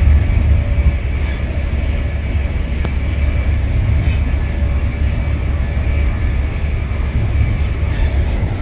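Passenger train coach running along the line, heard from inside the carriage: a steady low rumble of wheels on rails with a faint steady whine above it.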